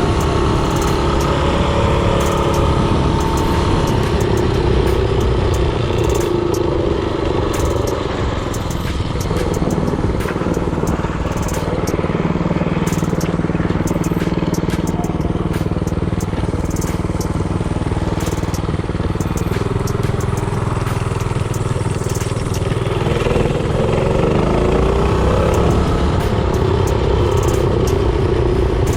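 Predator 224cc single-cylinder four-stroke engine of a mini bike running under way, its pitch rising and falling with the throttle.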